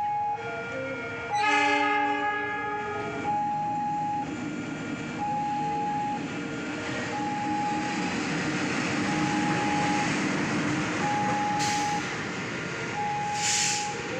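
Two-tone warning bell at a railway crossing, beating about once a second, while a train horn sounds a chord for about a second near the start. The train then rolls by with a rumble that swells through the middle, and there is a short hiss near the end.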